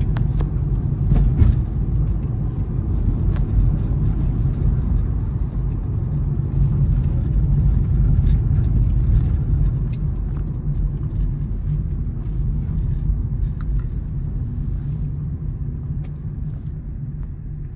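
Steady low rumble of a Honda City on the move, engine and tyre noise, with scattered faint clicks and ticks. The rumble eases slightly near the end.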